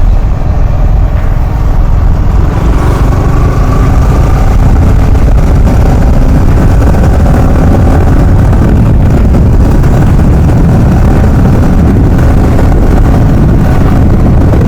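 Motorcycle on the move: engine running under heavy wind buffeting on the microphone.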